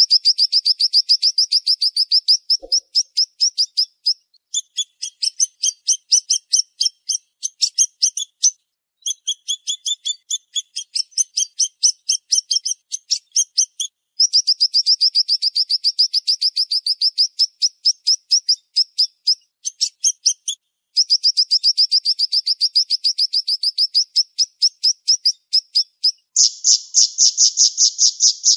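Siri-siri songbird singing fast, tightly packed trills of rapid repeated high notes, about ten a second, in long runs broken by brief pauses. A louder, fuller trill comes near the end.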